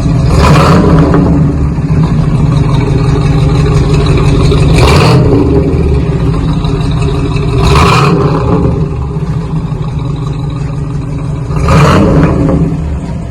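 1968 Cadillac Eldorado's 472 V8 idling with a deep rumble through an axle-back dual exhaust with single-chamber V-tube mufflers and no catalytic converters. The throttle is blipped four times in short revs, about a second in, near the middle, and twice more later.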